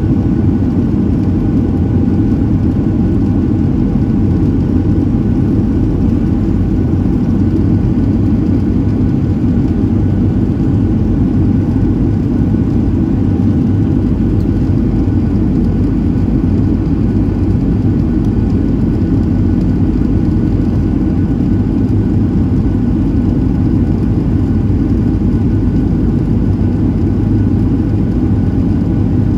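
Steady engine and airflow noise of a Boeing 737-700 in flight, heard inside the passenger cabin: a loud, even low hum with a few faint steady tones above it.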